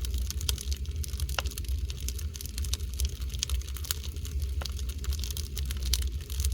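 Oak firewood burning, crackling with irregular sharp pops over a low steady rumble.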